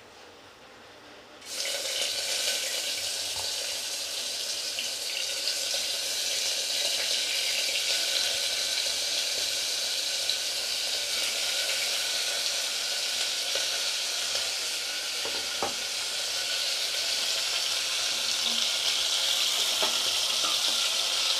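Chicken pieces hitting hot oil in a pressure cooker: a steady sizzle begins suddenly about a second and a half in and keeps going, with one light knock partway through.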